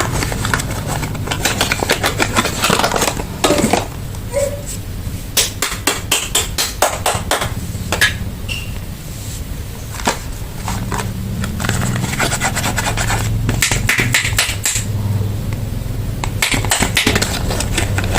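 Soap packaging being handled and opened by hand: irregular runs of quick crinkles, scratches and taps, over a steady low hum.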